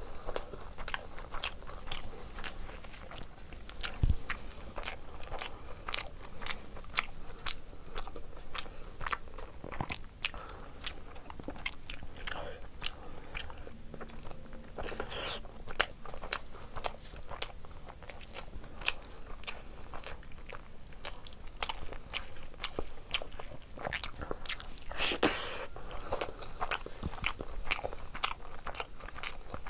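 Close-miked chewing of mouthfuls of egg curry and rice: a dense run of wet mouth clicks and smacks, with a single thump about four seconds in.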